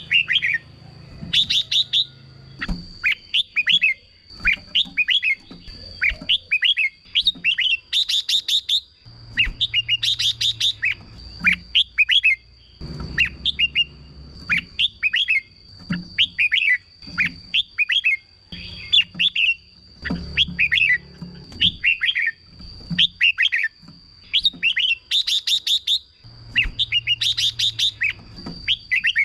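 Red-whiskered bulbul singing: short, quick warbled phrases repeated about once a second, over a steady high-pitched whine.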